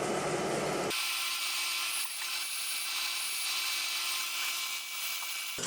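Boring machine drilling the spark-plug thread hole in an aluminium cylinder head with a 9 mm drill: a steady machining hiss. About a second in the sound changes abruptly, the low part dropping away to leave a thin high hiss over a steady hum.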